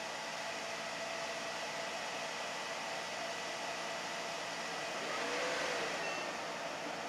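Freshly powered-up desktop PC's fans running steadily, with a faint thin high whine.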